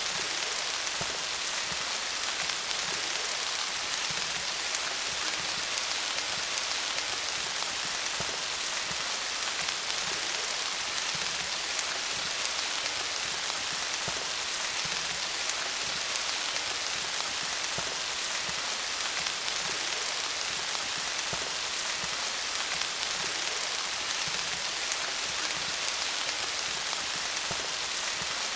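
Steady rain falling on leaves, a constant dense patter of drops with a bright hiss.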